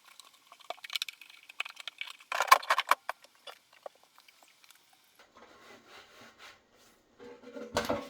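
Small clicks, taps and rattles of objects being handled, with a denser, louder clatter about two and a half seconds in and a knock near the end.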